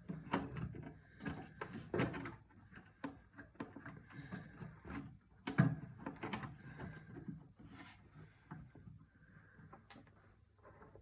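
Computer parts being handled and fitted into a wooden box: scattered light clicks and knocks, with one sharper knock about five and a half seconds in.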